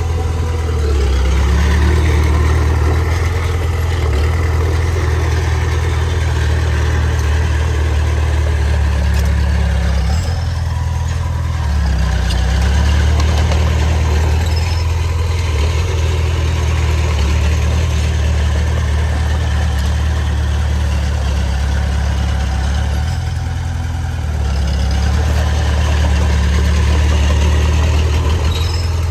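Heavy diesel engine of earthmoving machinery running under changing load: a steady low drone that shifts in pitch about ten seconds in and again near the end, dipping briefly before coming back up.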